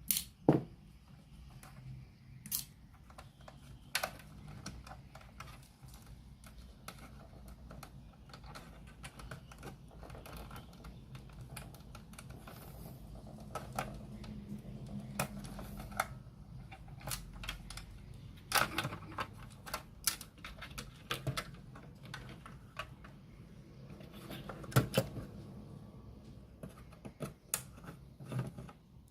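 Irregular clicks and taps of hands working on a radio cassette player, as small tools and plastic parts knock and rattle, with a faint steady low hum underneath.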